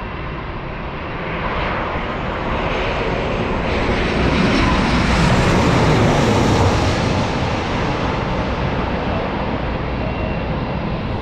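Jet airliner's engines passing close by, a rushing roar that builds to its loudest about five to six seconds in and then eases off.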